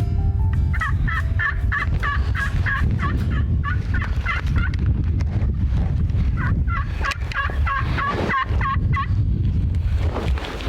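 Merriam's wild turkeys calling: two runs of quickly repeated notes, each run a few seconds long, over a steady low rumble.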